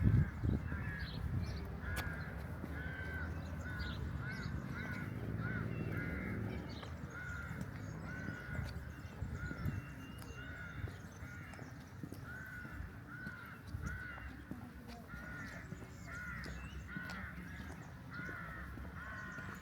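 A flock of birds calling, many short arched calls overlapping at about two a second, over a steady low rumble of the town.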